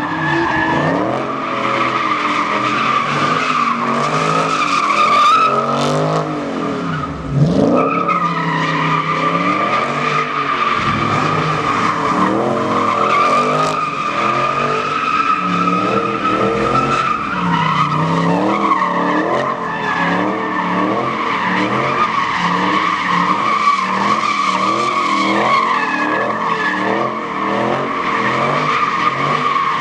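Tyres squealing steadily through a burnout or drift, with the engine's revs rising and falling repeatedly underneath.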